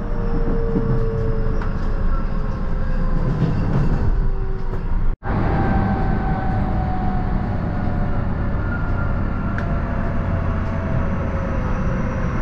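Electric commuter train running, heard from inside the carriage: a steady rumble with faint whining tones that drift slowly in pitch. The sound cuts out for an instant about five seconds in.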